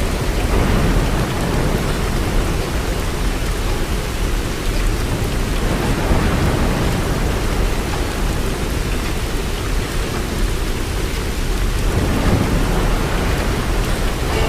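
Steady heavy rain with a deep low rumble underneath, swelling about half a second in and again near the end.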